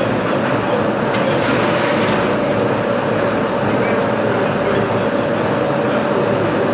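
A metalworking machine tool running steadily with a constant hum and a few faint clicks near the start.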